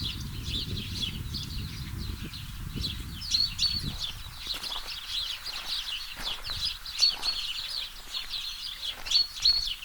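Birds chirping continuously, many short calls and repeated whistled notes. A low rumble underlies the first few seconds, then fades.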